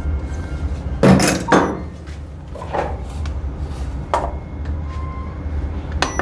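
A few separate knocks and clinks of espresso equipment being handled on a counter, the loudest pair about a second in, over a steady low hum.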